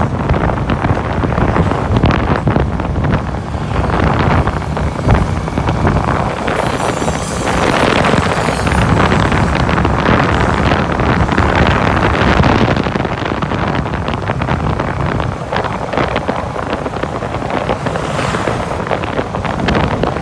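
Wind buffeting the microphone of a moving bike camera: a loud, continuous rumble of rushing air that swells and eases in gusts, with a brief higher hiss a third of the way in and again near the end.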